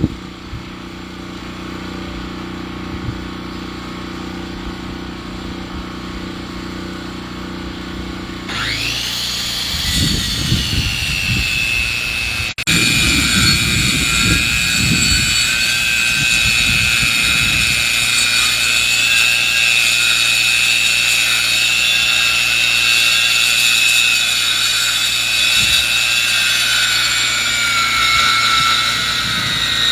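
A lumber-milling saw's engine idling. About a third of the way in it speeds up with a quickly rising whine, then runs at a steady high pitch as it saws through wood, with irregular low rumbling for several seconds after the speed-up.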